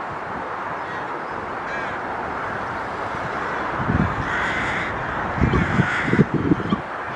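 Two harsh, drawn-out bird calls, about four and five and a half seconds in, over a steady background rush, with irregular low thumps of wind on the microphone during the calls.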